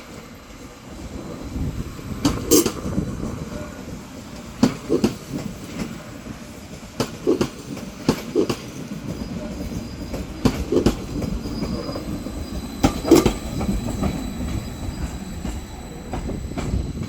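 Class 756 Stadler FLIRT multiple unit running into the platform. A low rumble of the train carries throughout, with sharp wheel knocks in close pairs every two to three seconds as its wheelsets cross rail joints.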